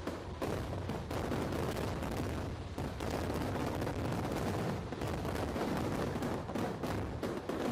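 Aerial fireworks going off in rapid, overlapping succession: a dense, continuous crackle of bangs and pops with no break.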